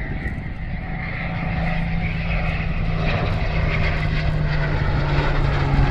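A Spitfire and a Eurofighter Typhoon flying together overhead: a steady low engine drone with a rushing noise, growing gradually louder as the pair approaches.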